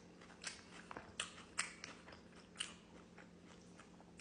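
Close-up mouth sounds of someone chewing crunchy food, with a few sharp crunches in the first half and softer chewing between.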